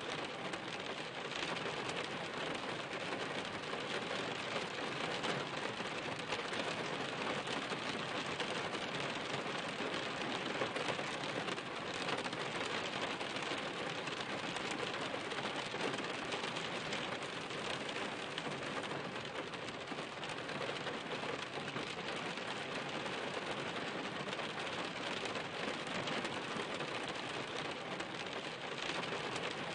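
Steady rain: a dense, even hiss of falling rain with many separate drop impacts ticking through it.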